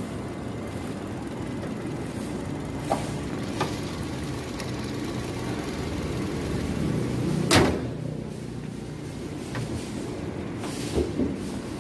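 Toyota Vios VVT-i four-cylinder engine idling steadily under an open bonnet; about 7.5 s in the bonnet is dropped shut with one loud slam, with a few lighter knocks of handling before and after.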